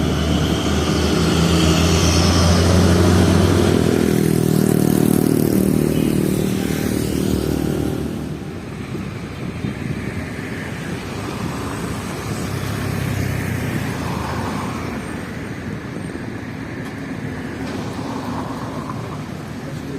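Heavy truck's diesel engine pulling past close by, loudest a couple of seconds in and dying away after about eight seconds, leaving the hum of traffic.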